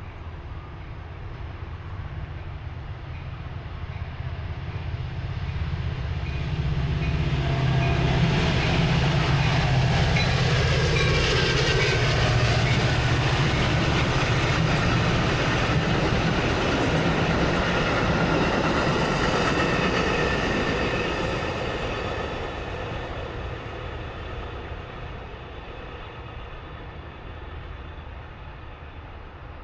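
Diesel commuter train approaching, passing close by and fading away: the locomotive's engine drone and the running of the cars on the rails build up over the first several seconds, hold loud through the middle, then die off toward the end.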